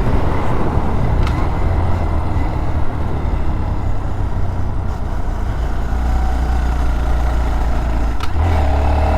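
Motorcycle engine running at steady speed while riding, with wind noise rushing over the helmet microphone. About eight seconds in the engine note shifts up and a steady whine comes in.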